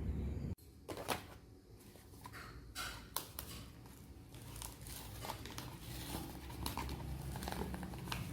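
A low rumble cuts off abruptly about half a second in. It is followed by irregular crinkling and tearing sounds with sharp clicks, like paper or plastic packaging being handled in a small room.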